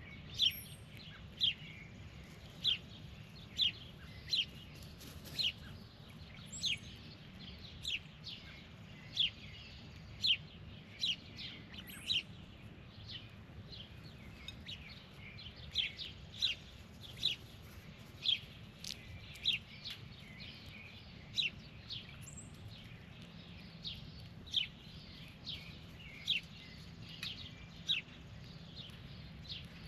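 A bird calling with short, sharp chirps that drop quickly in pitch, repeated roughly once a second, some closer together, over a faint low rumble.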